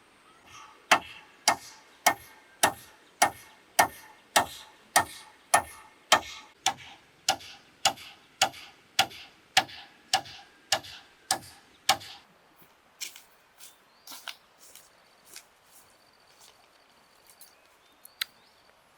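A tool striking bamboo in a steady rhythm, a little under two blows a second, about twenty in a row. Then come a few fainter, irregular taps and one last sharp strike near the end.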